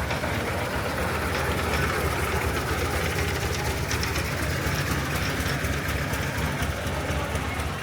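Longtail boat engine running steadily.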